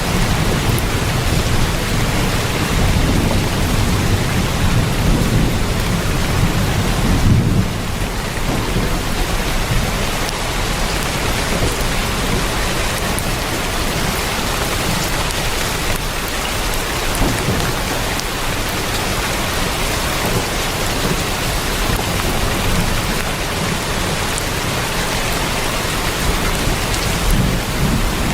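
Heavy rain pouring steadily onto a tin roof, with a deep low rumble under it that is strongest in the first seven seconds or so and then suddenly eases.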